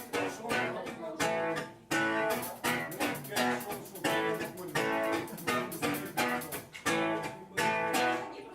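Acoustic guitar strumming rhythmic chords, live, a sharp strum roughly every half second or so.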